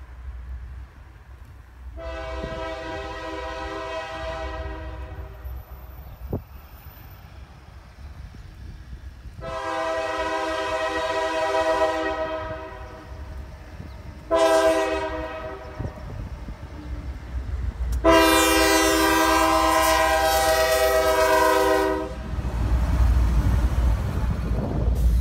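Locomotive air horn sounding the grade-crossing signal: two long blasts, a short one, then a final long and loudest blast. Then a loud low rumble as the locomotive passes close.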